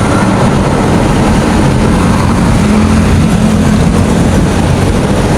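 Engine of a soil-boring drill rig running steadily, a loud continuous low rumble, while it drills a borehole for soil samples.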